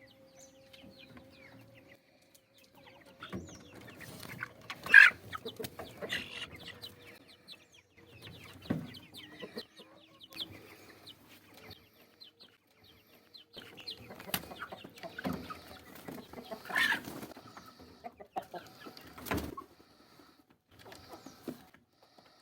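Birds calling on and off in short bursts, with one loud call about five seconds in.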